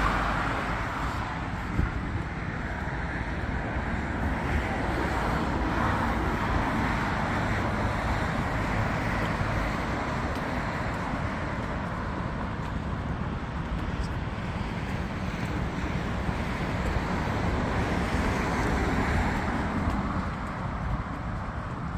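Steady city ambience of distant road traffic, with a low rumble throughout and a swell near the end as a vehicle passes closer.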